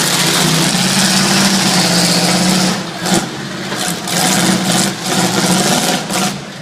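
Derby truck engine running hard and loud, easing off about three seconds in, with a few sharp knocks after that.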